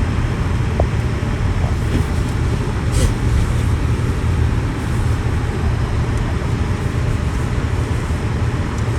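Steady, even road and engine noise of a car driving, with a faint brief tick about three seconds in.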